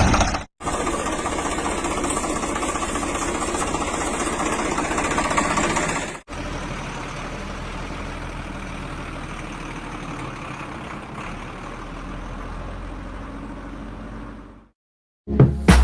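A vehicle engine running steadily, in pieces cut together, with abrupt breaks about half a second and about six seconds in; it fades out near the end and music begins.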